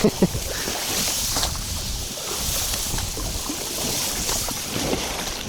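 Strong wind buffeting the microphone over choppy water, the hiss swelling and easing in gusts, with waves splashing around a small boat. A couple of short knocks come right at the start.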